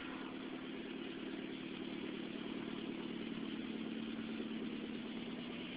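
Mitsubishi Lancer Evolution X's turbocharged 2.0-litre four-cylinder idling steadily with the muffler removed, the exhaust note a fast even pulsing, a little louder in the middle.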